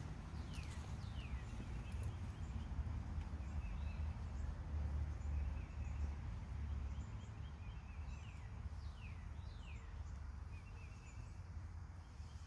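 Outdoor ambience: a steady low rumble with birds calling. Three quick downward-sweeping whistles come in the first second and a half and again about two thirds of the way through, with short chirps in between.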